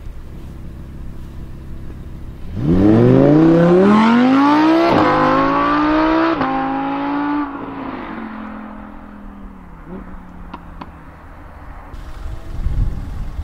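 Audi R8 V10 Plus's 5.2-litre V10 with sport exhaust idling, then pulling away from a standstill at full throttle. The pitch climbs steeply and breaks at quick upshifts about five and six and a half seconds in, then the sound fades as the car draws away.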